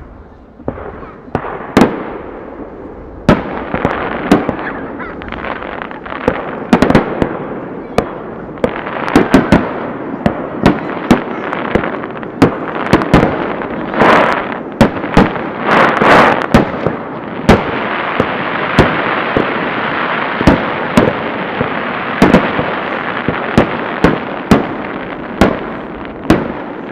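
Aerial firework shells bursting in quick, irregular succession: dozens of sharp bangs over a continuous crackling rush. The rush thickens and grows louder about two-thirds of the way in, then thins out near the end.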